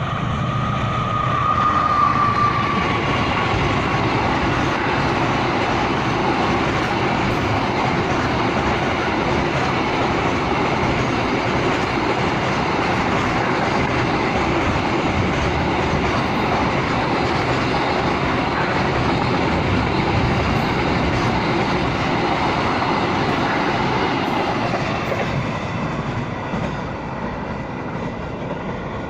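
Freight train rolling past, its wagons' wheels running over the rails with a steady clickety-clack. A high tone at the start fades within about two seconds, and the sound eases off over the last few seconds.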